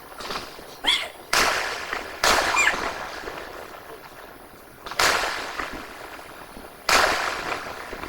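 Sky shot fireworks going off: five sharp bangs at uneven gaps, each fading out over about a second, with a brief whistle about a second in.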